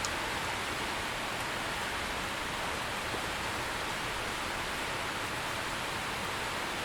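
Steady heavy rain falling, a dense even hiss with no distinct drops or thunder.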